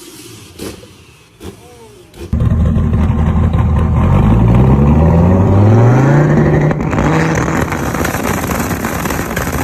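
Modified turbocharged car on anti-lag: a few faint pops, then the engine comes in suddenly loud, about two seconds in, and accelerates hard with its pitch climbing. It turns to a rougher, noisier running sound for the last couple of seconds.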